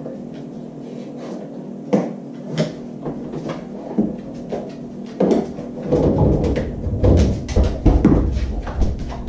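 A dog working a refrigerator door to fetch a water bottle: scattered clicks and taps, then from about halfway through a run of heavier knocks and thumps as the door and its contents are handled.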